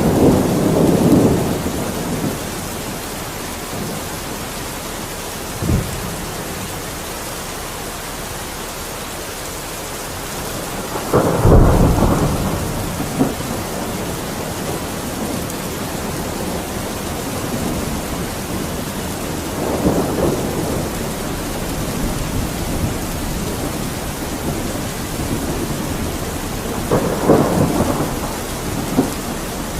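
Steady heavy rain with rolling thunder: a rumble at the start, a short sharp crack about six seconds in, the loudest roll about eleven seconds in, and further rumbles near twenty and twenty-seven seconds.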